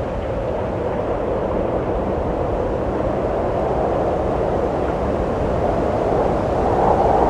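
Wind blowing as a steady rushing gust that slowly grows louder, its hiss rising a little in pitch near the end.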